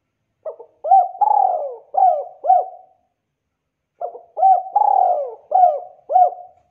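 Spotted dove (tekukur) cooing: two song phrases, each a few short coos around one longer drawn-out coo, with a pause of about a second between them.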